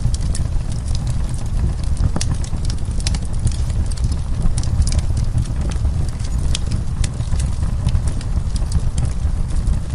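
Wood fire crackling, with irregular sharp pops and snaps from the burning wood over a steady low rumble.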